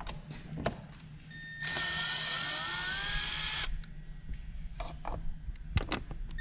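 Cordless drill-driver running for about two seconds, its motor whine rising slightly in pitch as it spins an 8 mm bolt out of the airbox lid. A few light clicks and knocks of handling come before and after.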